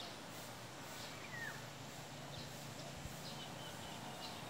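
Faint rural outdoor ambience with small birds chirping: short high chirps about every half second, and one falling call about a second and a half in. A faint steady low hum runs underneath.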